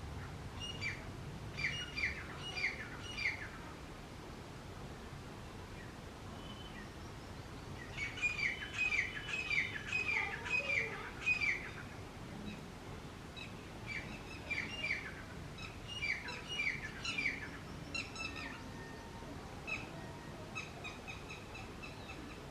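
Grey francolin calling in bouts of rapid, repeated sharp notes, each sliding downward in pitch. One bout comes about a second in, a longer one about eight seconds in, and another about fourteen seconds in, with scattered single notes near the end.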